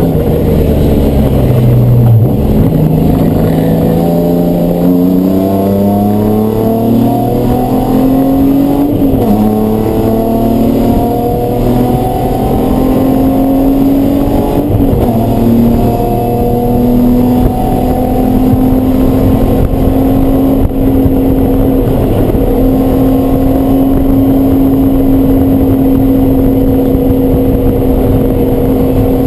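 Race car engine pulling hard, its pitch climbing and then dropping at gear changes about 2, 9 and 15 seconds in. It then holds a steady pitch at constant speed for the second half.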